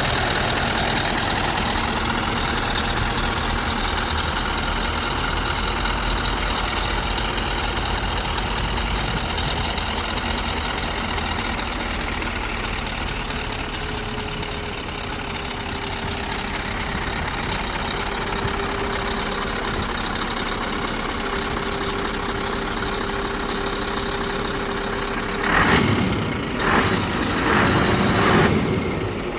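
Scania R620 truck's 16-litre V8 diesel engine idling steadily. Near the end come three or four loud, noisy bursts that rise above the idle.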